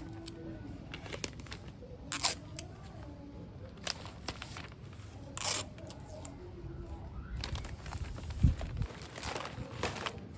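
Handling noises of wrapping materials for a snack bouquet: scattered crinkling, tearing and snips, with a sharp low thump about eight and a half seconds in.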